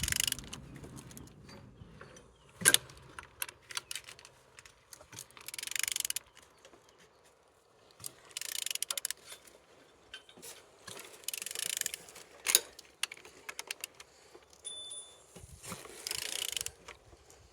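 L2V24 engine being turned over by hand, with mechanical clicking in short bursts every two to three seconds and single sharp clicks between them. The engine turns freely and is not seized.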